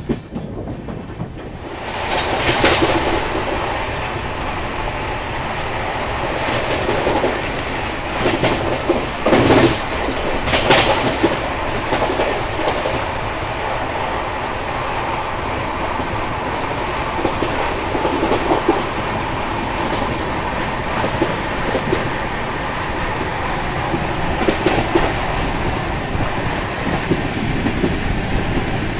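Passenger train running at about 130 km/h, heard at an open coach door: steady wheel-on-rail running noise with clickety-clack. It gets louder about two seconds in, and a few sharper clacks come between about seven and eleven seconds in.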